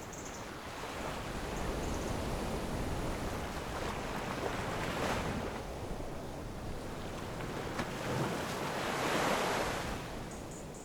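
Rushing wash of water with wind noise, swelling about halfway through and again near the end before easing off.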